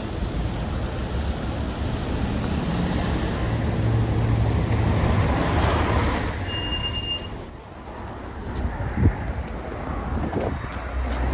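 Yutong ZK6128HG diesel city bus underway, its engine and road noise heard as a steady low drone. The noise builds over the first several seconds, eases off about seven seconds in with a single knock near nine seconds, then picks up again near the end.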